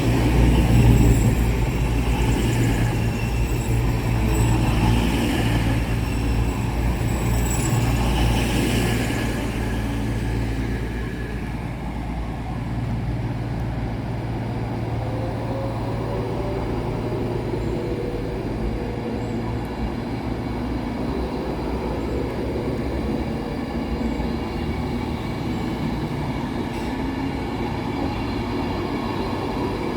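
A train running at a station platform, with a low rumble and high whining tones that are loudest for about the first ten seconds, then ease to a quieter steady rumble.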